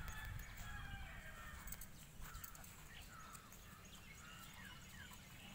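Several birds chirping and calling, faint, with many short rising and falling calls overlapping, over a low rumble.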